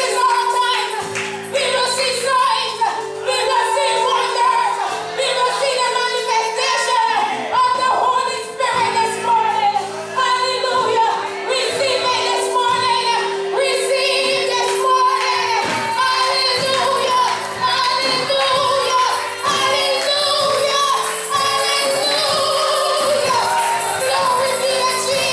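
Gospel singing in church: a singer's voice rising and falling over long held keyboard or organ chords, including one steady low note sustained throughout.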